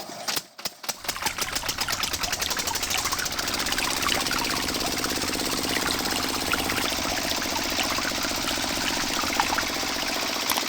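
Small electric motor of a DIY model construction machine running steadily with a fast, even rattle, after a few separate clicks in the first second.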